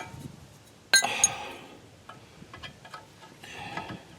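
Metal clinks of a steel wrench against a nut and bolt: two sharp ringing clinks about a second in, then lighter ticks and rattles.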